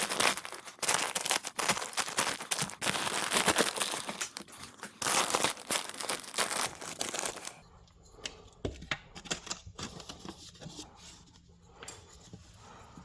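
Crinkling and tearing of a sheet being handled. It is dense and continuous for about seven and a half seconds, then drops to scattered crackles and clicks.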